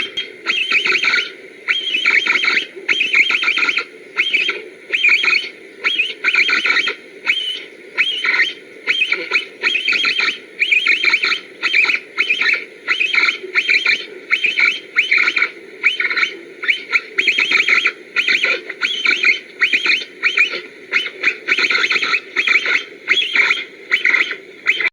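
A pio game call blown to imitate capybaras: rapid clicking, chirping bursts, repeated about one and a half times a second throughout.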